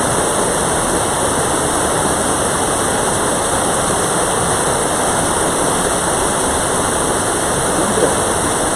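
Mountain stream rushing over rocks in a steady, loud wash of water, running high after a day of rain.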